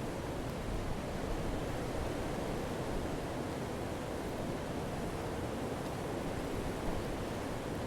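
Campfire burning: a steady hiss of flames with a few faint crackles.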